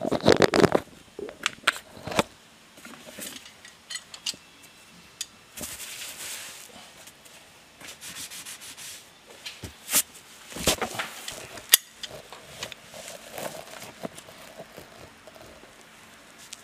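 Large channel-lock pliers scraping and clicking against a Honda NC700X's spin-on oil filter as it is worked loose. Irregular rubbing with sharp clicks: a cluster of clicks at the start and more about ten seconds in.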